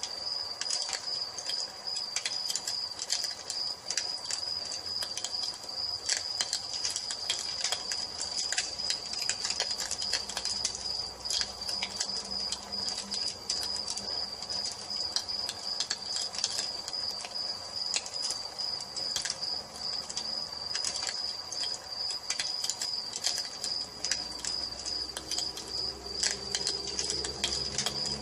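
Crickets chirping in a steady high trill over a wood fire crackling with frequent small sharp pops.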